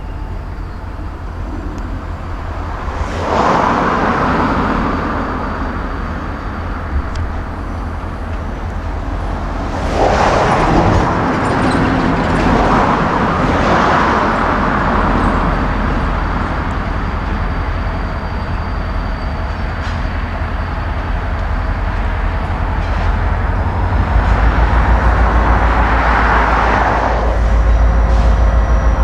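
EMD diesel locomotive engine running with a deep rumble that grows louder and pulses near the end, with three long swells of rushing noise over it.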